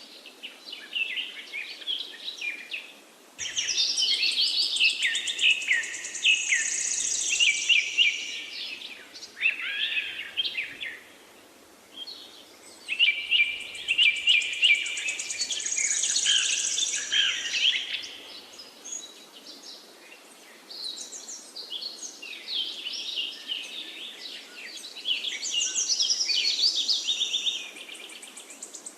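Several songbirds singing at once: a dense chorus of quick chirps, whistles and trills that swells and thins, over a steady background hiss.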